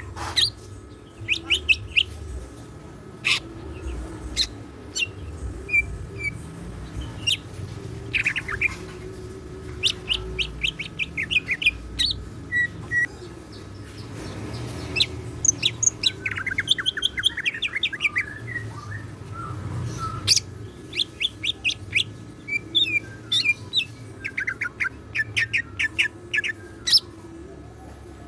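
Green leafbird (cucak ijo) singing hard: bursts of sharp chips, rapid chattering runs of notes and short whistles, one after another with hardly a pause, including learned songs of other birds.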